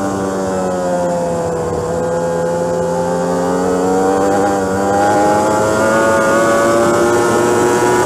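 Motorcycle engine running under load, its pitch sinking over the first couple of seconds and then rising steadily as the bike gathers speed.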